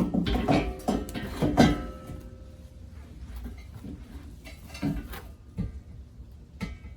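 Clattering and knocks of exhaust parts and flange bolts being handled and fitted: a busy burst of knocks at first, then a few single knocks.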